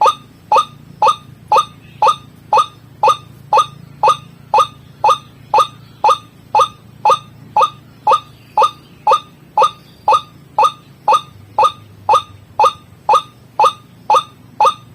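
White-breasted waterhen (ruak-ruak) calling on a lure recording: a monotonous run of short, identical notes, each dropping in pitch, about two a second and very regular.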